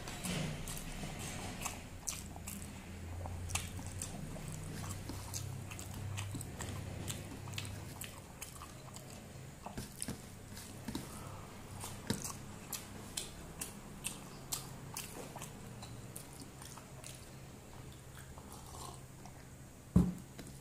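Close-up chewing and mouth sounds of someone eating rice with vegetable fries by hand: wet smacks and short crunchy clicks throughout. Fingers mix rice on a steel plate, with one loud knock near the end.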